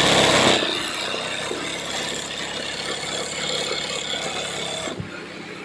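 Embroidery machine running and stitching, a fast, steady mechanical rattle. It is louder for the first half second, then settles lower and eases off again about five seconds in.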